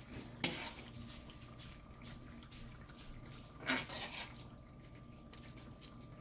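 Faint running or sloshing water in a small room over a steady electrical hum, with two short sharp clatters, one about half a second in and one about three and a half seconds in.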